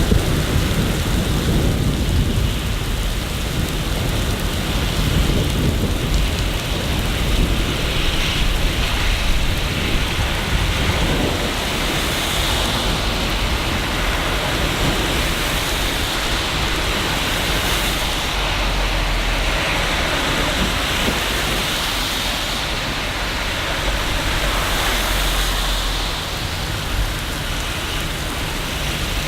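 Steady rain falling, with a low rumble underneath that swells near the start and again in the second half.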